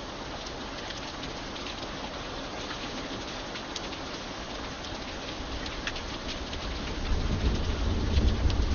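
Steady rain with distinct single drops ticking through it. About seven seconds in, a low rumble of thunder rolls in and grows louder.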